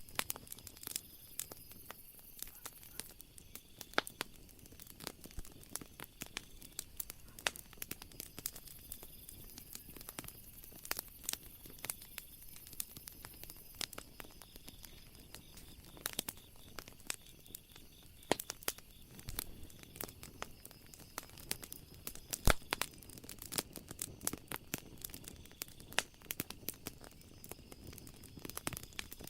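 Wood fire crackling: a steady scatter of irregular sharp pops and snaps, a couple of them louder, one just at the start and one about 22 seconds in.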